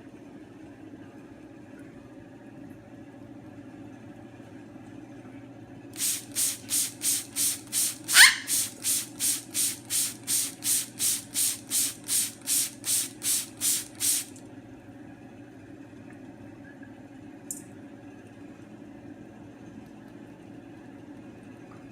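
Trigger spray bottle misting water in quick, even squirts, about three a second for some eight seconds. A short rising squeal cuts in about two seconds into the spraying.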